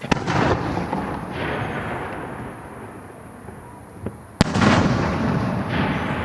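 Two fireworks shells bursting in the air, each a sharp bang followed by a long rolling echo that slowly fades; the first goes off right at the start and the second about four seconds later, with a small pop just before it.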